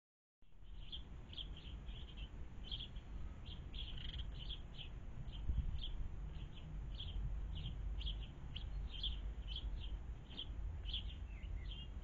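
A small bird chirping, a steady run of short high chirps about two a second, over a constant low rumble.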